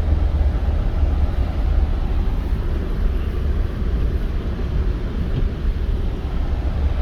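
Steady low rumble of a Toyota Tundra pickup driving, engine and road noise heard from inside the cab.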